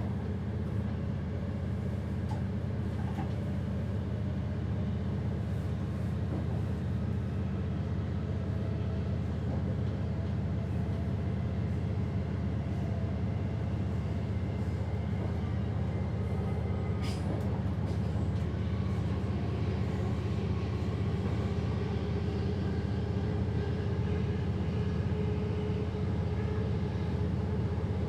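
Passenger train running at speed, heard from inside the driver's cab as a steady low rumble with faint running tones above it. There is a single sharp click about 17 seconds in.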